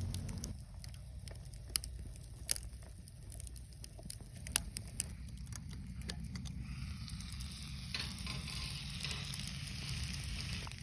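Food sizzling as it fries over a camp fire pit, the sizzle starting about two-thirds of the way in, after a few sharp clicks or knocks in the first half. A steady low rumble runs underneath.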